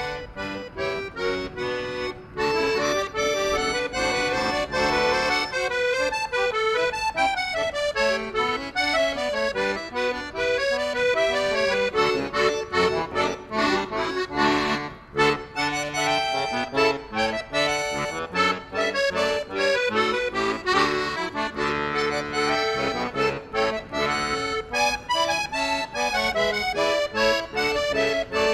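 Accordion music: a melody of quick, shifting notes over held chords.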